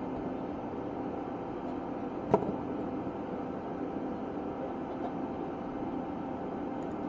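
Steady background hum with one sharp click about two seconds in.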